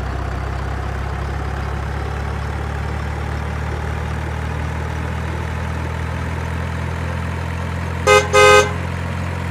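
A heavy truck's diesel engine idling steadily in a low, even drone, with two short horn honks in quick succession about eight seconds in.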